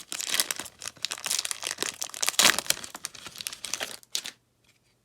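Crinkling and tearing of an NBA Hoops trading-card fat pack wrapper as it is ripped open and handled, stopping suddenly about four seconds in.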